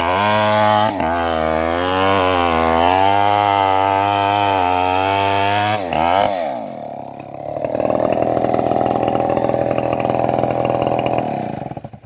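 Engine-driven homemade bandsaw mill running as its blade saws a trembesi log, the engine pitch wavering under the load. About six seconds in the pitch falls away. A steadier, lower hum follows and stops abruptly near the end.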